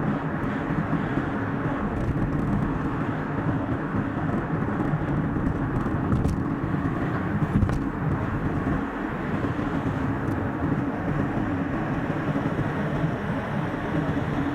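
Steady road and engine noise of a car driving along a highway, heard inside the cabin and sped up to double speed.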